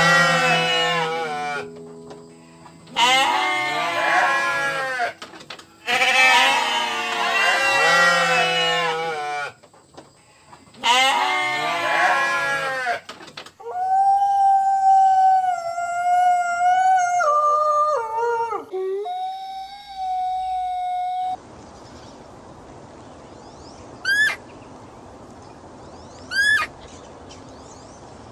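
Goats bleating: four long, wavering calls in the first half. They are followed by a steady whistled tone that steps down in pitch, then a faint hiss with two short rising chirps near the end.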